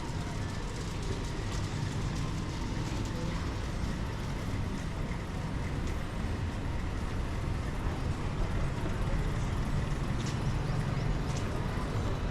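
Steady low rumble of a running vehicle, with faint scattered clicks and growing slightly louder in the second half.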